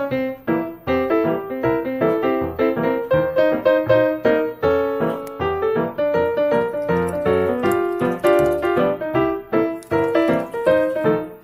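Background piano music: a quick, steady run of notes.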